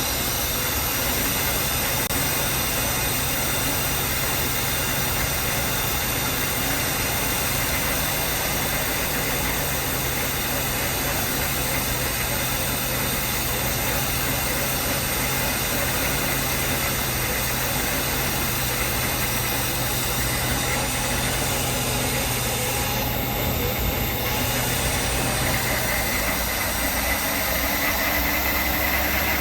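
Mercedes 560 SEC's 5.5-litre V8 idling steadily, its note dropping lower near the end; the uploader tags the video as engine knocking.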